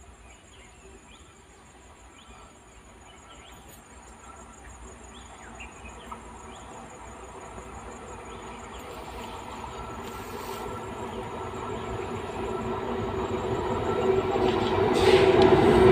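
Indian Railways electric locomotive hauling a train, approaching and growing steadily louder, from faint to loud, with a steady hum and rising rumble as it nears and reaches the point of passing.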